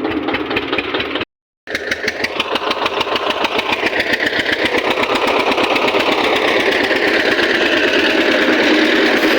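Eicher tractor's diesel engine running with a rapid, even firing beat. There is a brief complete break in the sound about a second in, after which the engine runs on, slowly growing a little louder.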